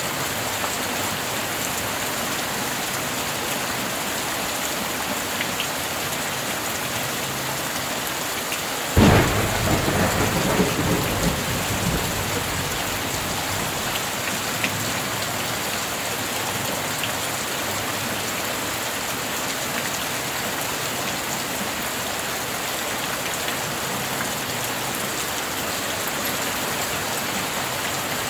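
Steady rain falling, with one sudden thunderclap about a third of the way in that rumbles away over the next few seconds.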